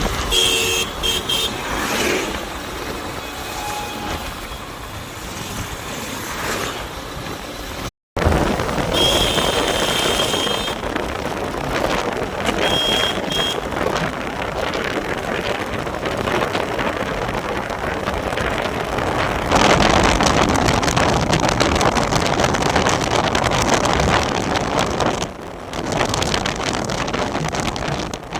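Road and traffic noise heard while riding at night: a steady rush of engine, tyre and wind noise, with short high horn toots about nine and thirteen seconds in. It gets louder from about twenty to twenty-five seconds in, and breaks off for a moment about eight seconds in.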